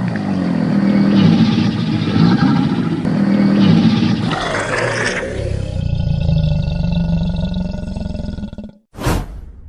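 A large animal's deep, rumbling growl-roar, pulsing and continuous, changing character about five seconds in and ending shortly before a brief final burst.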